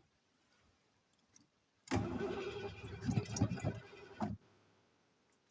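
Ford 460 big-block V8 cranking on the starter for about two and a half seconds without catching, then stopping abruptly; a no-start that the owner takes for a missing spark.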